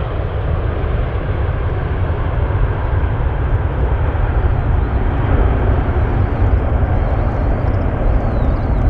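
Boeing 767-300 jet airliner's engines running loud and steady, a deep rumble with hiss.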